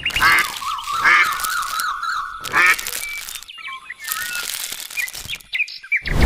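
Birds calling: a series of short chirps and quick rising and falling whistles, with a wavering, quavering call in the first two seconds.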